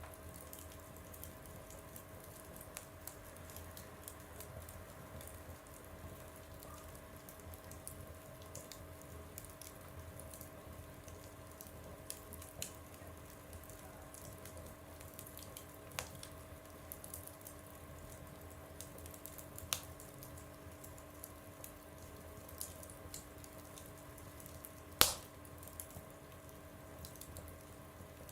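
Wood fire crackling in a stove: irregular small ticks and snaps over a faint steady hum, with one sharp loud pop near the end.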